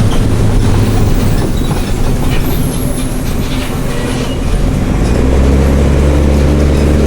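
Mercedes-Benz OM366LA turbocharged inline-six diesel of a city bus with an open, straight-through exhaust, running under way over rattling road and body noise. About five seconds in the engine note comes up louder into a steady, deep drone as it pulls.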